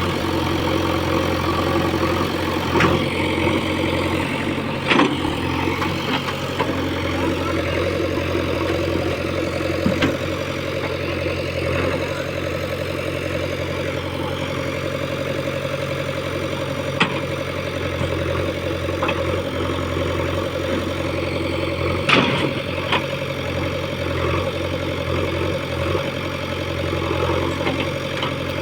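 Heavy diesel engine running steadily at a constant speed, with a few short knocks scattered through, the loudest about three quarters of the way in.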